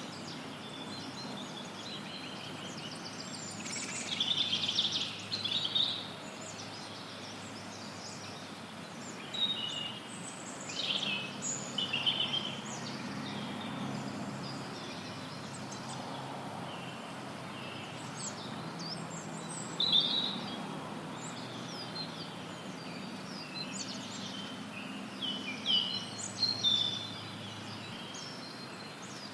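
Forest birds chirping and singing in short scattered bursts over a steady background hiss of added white noise.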